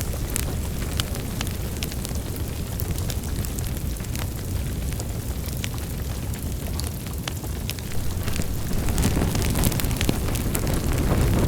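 Wood fire burning in a fireplace: a steady low rumble of flames with scattered sharp crackles and pops, growing louder and busier near the end.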